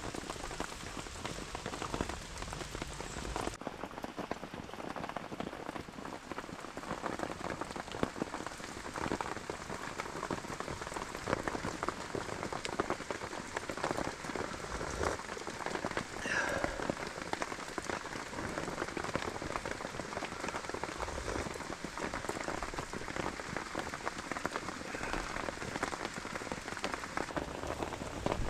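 Steady rain falling, a dense hiss of countless small drop impacts.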